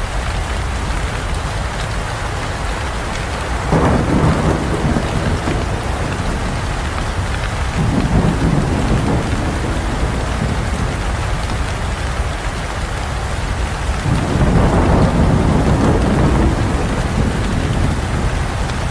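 Steady heavy rain with thunder rumbling three times, about four seconds in, about eight seconds in and around fourteen seconds in, the last rumble the longest.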